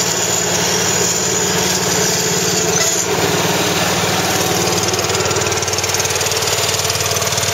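Deutz-Allis 6-6-10 garden tractor's engine running steadily with an even firing beat, shortly after a cold start from a month of sitting. About three seconds in the sound shifts slightly.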